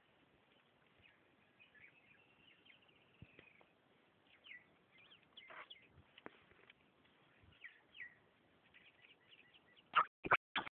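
Faint bird calls in open forest: short chirps and one longer arching whistled call. Near the end, a quick run of loud sharp clicks.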